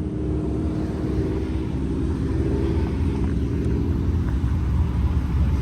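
Car engine running steadily, a low, even drone.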